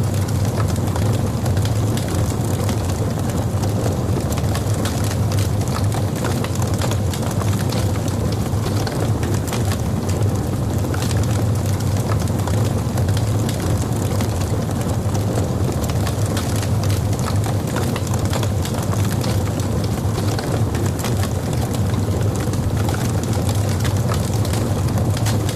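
Logs burning in a fireplace: a steady low rumble of flame with many small, rapid crackles and pops.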